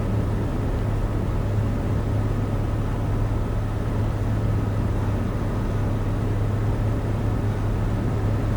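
Cessna's piston engine and propeller droning steadily, heard from inside the cockpit with airflow noise, and no change in pitch or level.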